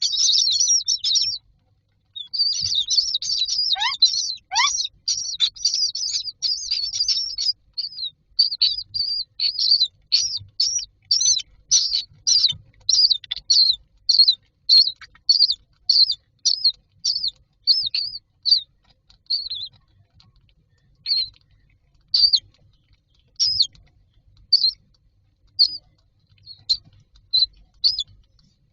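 Common myna chicks making high-pitched begging calls in the nest box. A dense run of rapid chirps, with two downward-sliding calls about four seconds in, settles into single calls about once a second that grow sparser toward the end.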